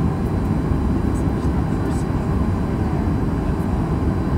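Cabin noise inside a Boeing 737-800 during departure: its CFM56 engines at high power and the rushing air make a steady low rumble, with a few faint light ticks above it.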